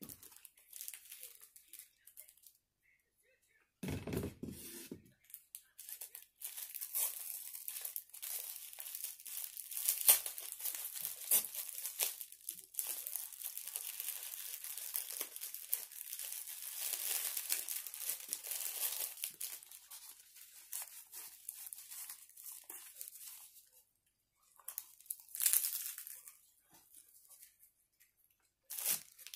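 Close-up crunchy chewing of fried squid karaage: dense crackling that runs for most of the stretch and eases off, with a short low thud about four seconds in.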